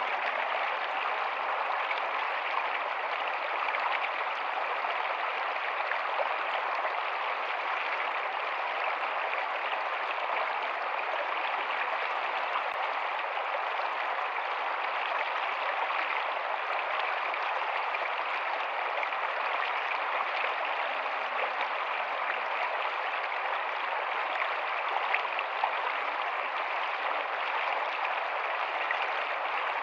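Rocky stream running steadily over stones, a continuous even rush of water.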